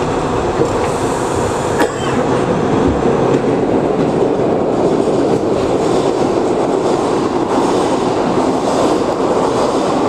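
R62A subway train running at speed, a steady rumble of wheels on the rails and car noise, with one sharp click about two seconds in.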